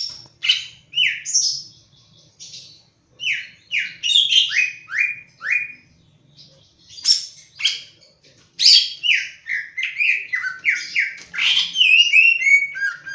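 Greater green leafbird (cucak ijo, East Javan type) singing: quick runs of short falling whistles mixed with higher chips, with a brief pause about halfway through.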